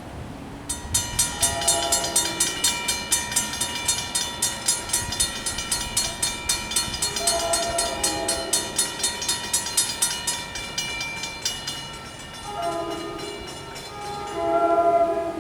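Grade-crossing bell ringing rapidly and evenly, about four to five strokes a second, stopping about eleven seconds in. A train horn sounds over it and then twice more near the end; the last blast is the loudest.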